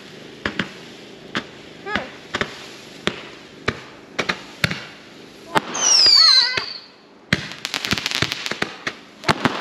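Consumer fireworks going off: scattered pops and bangs, then about six seconds in a loud whistle that falls in pitch, followed a second later by a rapid run of crackling.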